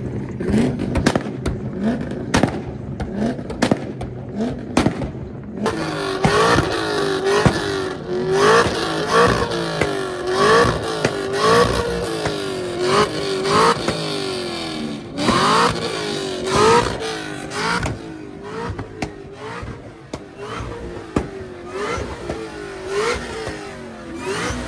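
A car engine revved over and over in quick blips, each rev rising and falling in pitch, with pops between the early revs. About six seconds in, the revving turns brighter and clearer.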